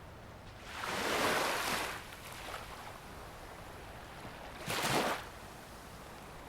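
Small sea waves breaking and washing on a sandy shore: a longer wash about a second in and a shorter, sharper break near five seconds, over a steady low surf background.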